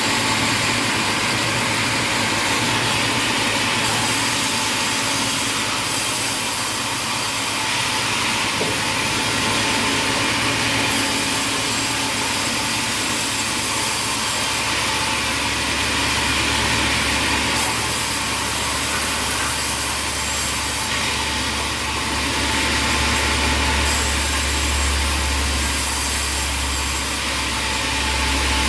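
Sawmill machinery running steadily, a continuous mechanical noise. A low rumble comes in about halfway through and grows louder.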